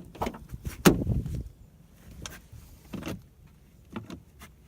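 Snow shovel scooping and scraping snow: a string of irregular scrapes and knocks, the loudest and longest about a second in.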